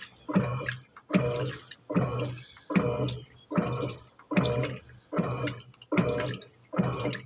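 Electrolux Turbo Economia top-loading washing machine agitating a double duvet, its wash water sloshing in regular surges about every 0.8 seconds as the agitator swings back and forth.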